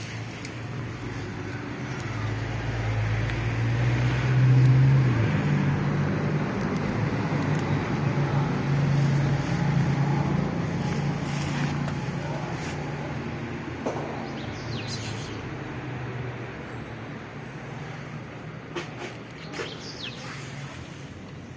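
A motor vehicle's engine going by on the street: a low drone that builds over the first few seconds, is loudest about five seconds in, and slowly fades away. A few short bird chirps come near the end.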